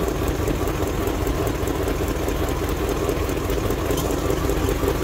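A 5.9-litre Magnum V8 idling steadily with a miss. The miss comes from two spark plug wires that are eaten through.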